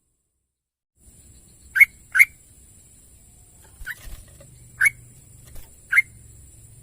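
Sooty-headed bulbul (trucukan) calling: five short, sharp notes, a quick pair about two seconds in, then three more spaced about a second apart, over a faint steady background hum.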